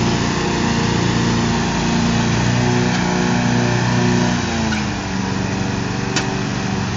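Two riding lawn mower engines, a Craftsman and a Troy-Bilt, running together while pulling against each other. About four and a half seconds in, the engine pitch drops, and near the end there is a single sharp click.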